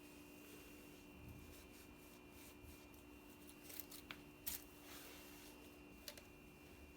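Quiet room tone with a steady faint hum, broken around the middle by a few soft clicks and rustles of something being handled, the sharpest about four and a half seconds in.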